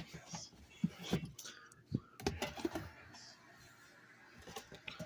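Drinks being handled and put away in a fridge: irregular clicks and knocks, with a few heavier knocks in the first half and a cluster of small clicks near the end.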